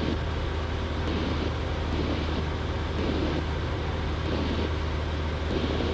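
Steady drone of a Cessna 172's piston engine and propeller heard inside the cabin in flight, a constant low hum with rushing air noise over it.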